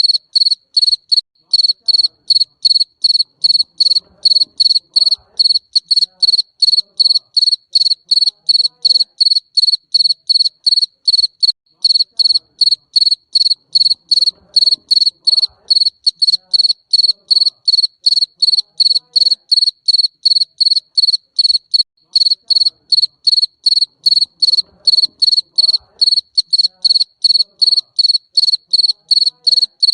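Garden cricket chirping in a steady, even train of short high-pitched chirps, about three a second.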